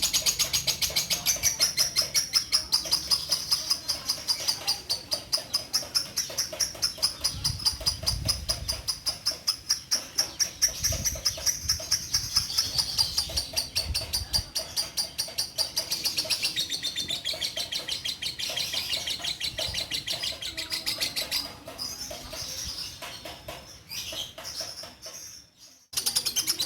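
Bio Green lovebird chattering in one long unbroken run of fast repeated high notes, the long chatter bird-keepers call ngekek panjang. After about twenty seconds it breaks off into a few short bursts.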